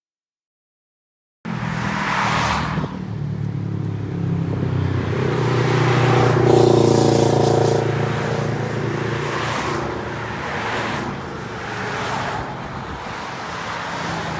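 After a second and a half of silence, a motor vehicle drives by on the road over steady road and wind noise. Its engine hum swells to its loudest about six to eight seconds in, then eases off.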